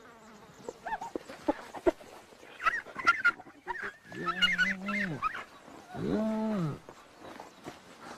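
Spotted hyenas calling in a tense standoff over a carcass: a run of high, wavering squeals and yelps, then two long, lower calls that rise and fall, about four and six seconds in.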